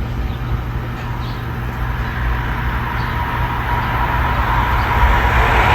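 Amtrak passenger train approaching at speed on the Northeast Corridor, its rushing noise growing steadily louder, with a steady high tone coming in and strengthening toward the end.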